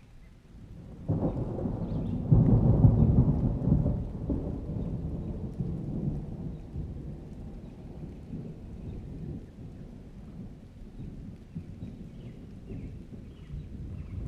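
A thunderclap breaks in suddenly about a second in, is loudest for the next couple of seconds, then trails off into a long, low rumble of thunder.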